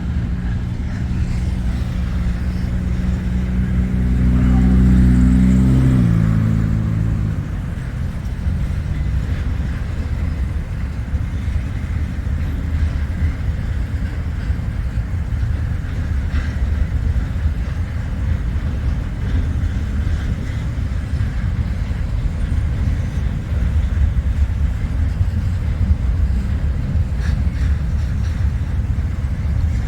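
International 1066 tractor's diesel engine running under throttle, loudest about five seconds in, then its pitch drops off about six seconds in and it settles into a rough, steady rumble.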